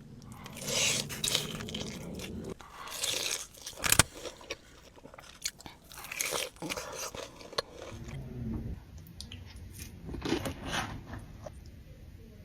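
Close-miked mukbang eating: bites and chewing of cheesy food in repeated clusters, with one sharp crack about four seconds in.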